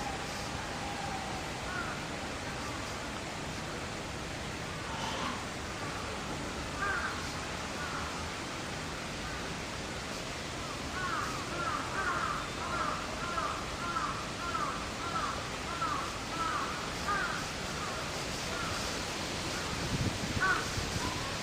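Birds calling: a run of about a dozen short calls, about two a second, in the middle, with scattered single calls before and after, over a steady outdoor background hiss. A brief low rumble comes near the end.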